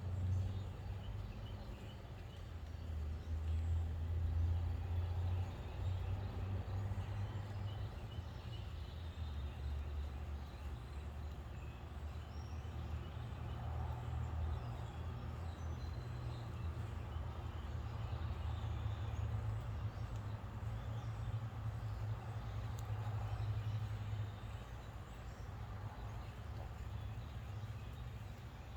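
Low, steady rumble of vehicle engines that swells and eases, with faint bird chirps over it.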